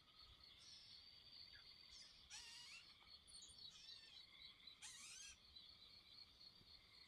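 Faint evening birdsong: one bird repeats a short phrase of rising slurred notes about every two and a half seconds, with shorter calls in between, over a steady high-pitched trilling chorus.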